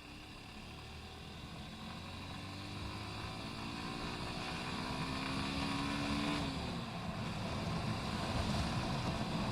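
Motorcycle engine, the Honda Hornet 160R's single-cylinder, pulling up through a gear under wind and road noise. Its pitch rises slowly for a few seconds, then drops about six seconds in as the gear changes.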